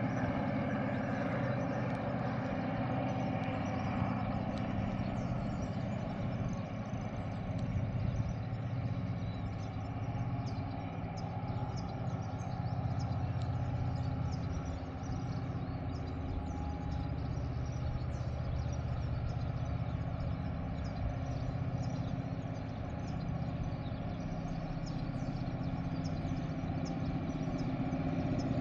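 TasRail diesel locomotives, led by DQ 2001, running steadily as they haul a train uphill. Faint, sharp high ticks recur over the engine sound.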